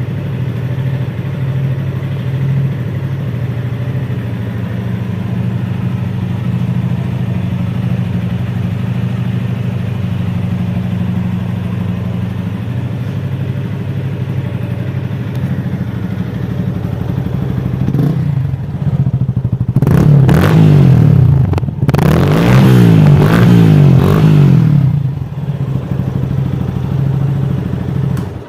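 Yamaha FZ25's single-cylinder engine idling steadily through an Akrapovic slip-on exhaust, then revved: one short blip, followed by two longer, louder bursts of revving near the end, before it drops back to idle.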